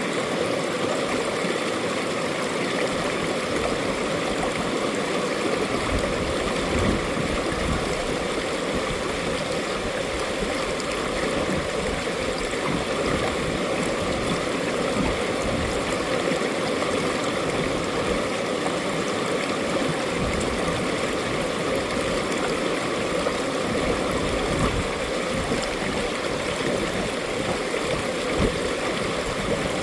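Mountain valley stream flowing steadily, a continuous gurgling rush of water with a fluttering low rumble beneath it.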